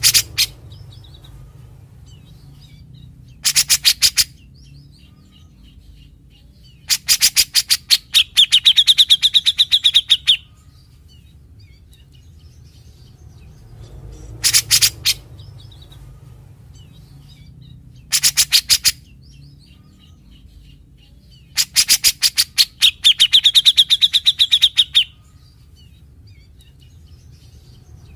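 Grey-cheeked bulbul (cucak jenggot) calling in short bouts of rapid, harsh rasping notes, the bird's typical 'besetan'. Two of the bouts are longer and carry a clearer whistled note within the rasping. A faint low hum runs underneath.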